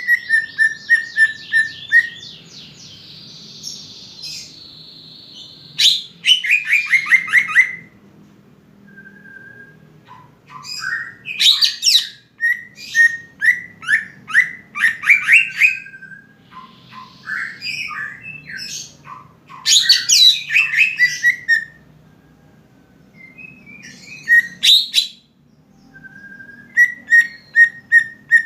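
Green leafbird (cucak ijo) in full song: loud, varied phrases of rapid notes sliding down in pitch into held whistles, in repeated bursts with short pauses between them.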